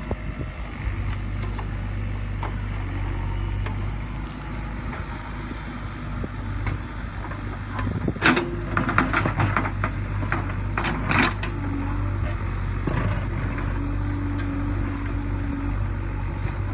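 JCB 3DX backhoe loader's diesel engine running steadily under work, with a cluster of sharp metallic clanks about halfway through.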